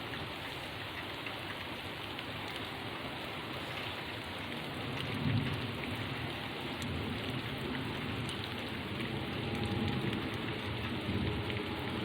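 Steady rain falling, an even hiss of drops, with a low rumble building from about five seconds in.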